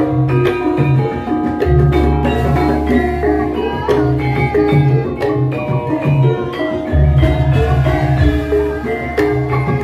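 Javanese gamelan music: struck bronze metallophone notes in a running pattern over repeated low drum strokes, with deep sustained low tones about two seconds in and again about seven seconds in.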